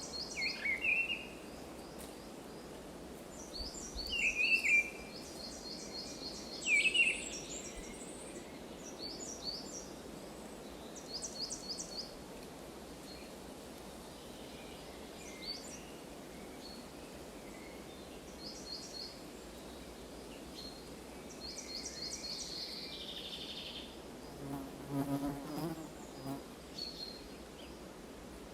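Forest ambience: small birds call in short, quick series of high chirps every few seconds, with a few lower falling notes in the first seconds, over a steady hiss. A brief low buzz comes near the end.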